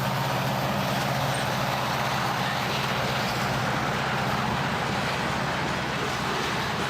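A heavy engine running steadily with a low, even drone, under a wide rushing noise of rolling traffic.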